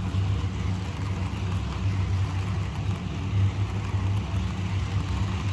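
HO-scale Bachmann model locomotive running: a steady low electric-motor hum with wheels rumbling on the track, labouring under a load of passenger coaches.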